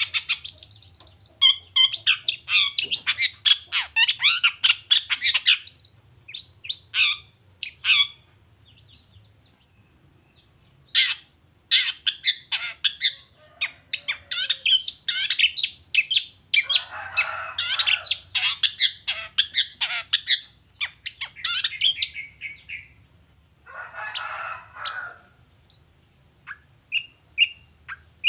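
Long-tailed shrike (cendet) singing a fast, scratchy song of rapid chirps and trills, with a short lull about nine seconds in and harsh rasping bursts twice in the second half. A low steady hum runs underneath.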